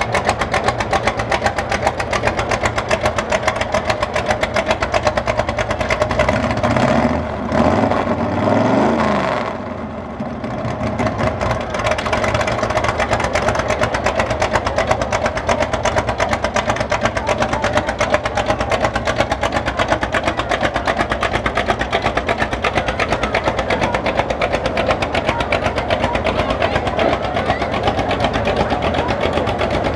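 Antique car engine running with a fast, steady beat. Between about seven and nine seconds an engine's pitch rises and falls again, as when a car revs or drives past.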